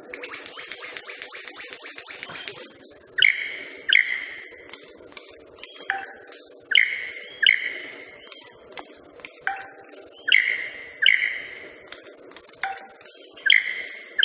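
Club-winged manakin making its ringing wing-feather notes: sharp, clear, pitched sounds that die away quickly, mostly in pairs, repeated every few seconds. A crackle of short ticks comes in the first few seconds, and a steady low hum runs underneath.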